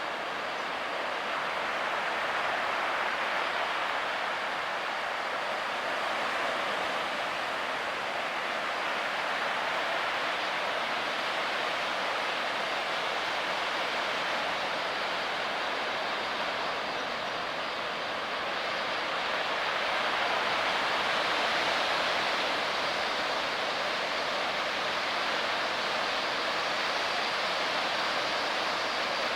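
Steady roar of heavy surf from a typhoon swell, growing slightly louder about twenty seconds in.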